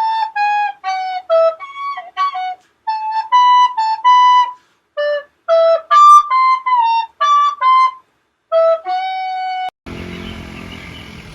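A solo melody on a flute-like wind instrument: a phrase of short notes and a few held ones, with brief pauses. It stops near the end and gives way to steady background noise.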